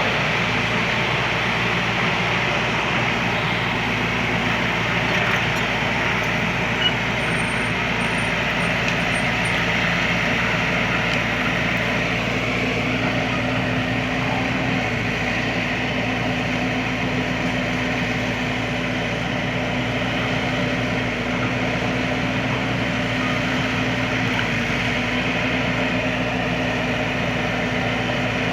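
Heavy diesel engine of an excavator running steadily at an even pitch, with one short click about seven seconds in.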